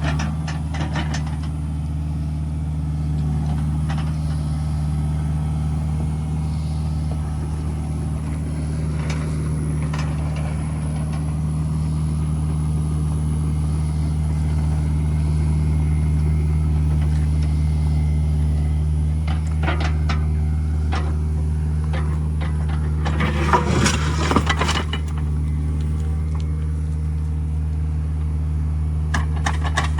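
Heavy diesel equipment running steadily while it drags and pushes gravel and rock, with scattered knocks and a louder spell of scraping and clanking about three-quarters of the way through.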